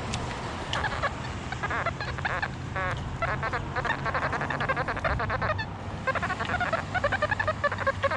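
XP Deus metal detector's audio giving rapid runs of short, squawky chirping tones as the coil sweeps over targets, with a brief lull past the middle.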